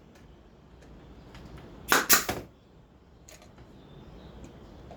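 Brad nailer firing two brads in quick succession about two seconds in, two sharp shots about a third of a second apart.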